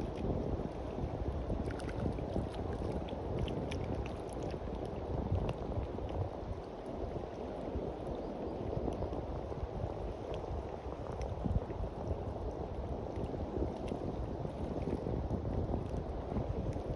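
Sea waves washing on the beach, a steady rushing with small crackling ticks of water, with wind buffeting the microphone.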